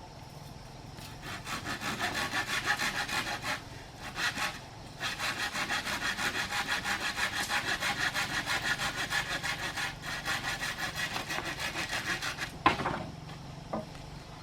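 Hand saw cutting through wood in quick, even strokes, about four a second, with a short break after the first run. A sharp knock follows near the end.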